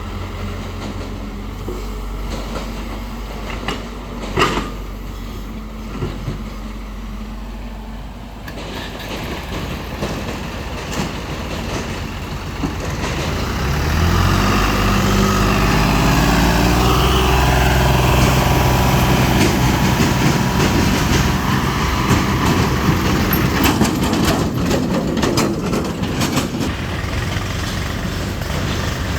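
Tractor diesel engine running at a low steady speed with a sharp knock about four seconds in, then revving up about halfway through and running hard and loud.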